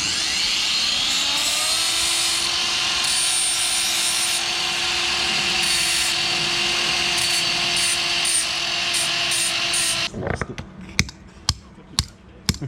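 Power tool, most likely an angle grinder, spinning up with a rising whine and then cutting steadily through steel exhaust pipe for about ten seconds before stopping. It is followed by a few sharp metal knocks near the end.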